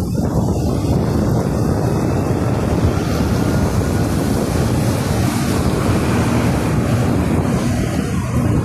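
Wind buffeting the microphone as a steady, loud rumble, with some hiss above it.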